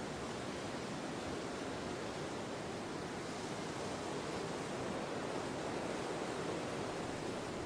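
Wind blowing steadily, a soft even rushing that swells a little about two-thirds of the way through.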